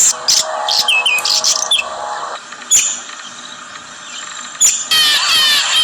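Many birds chirping, thickening into a dense chorus of rapid repeated chirps near the end, with two sharp clicks about three and five seconds in.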